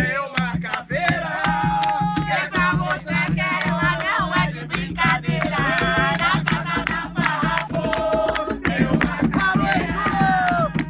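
An Umbanda ponto sung loudly over atabaque hand drums beaten in a fast, steady rhythm.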